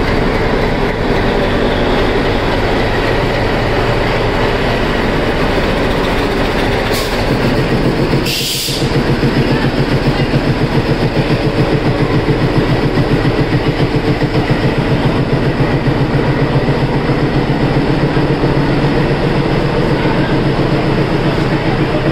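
Nilgiri Mountain Railway toy train running, a steady mechanical rumble. There is a brief hiss about eight seconds in, after which a regular rhythmic beat comes through.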